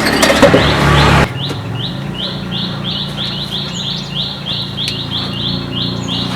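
A loud noisy sound cuts off suddenly about a second in, then a small bird chirps over and over, about three or four short high chirps a second, over a low steady hum.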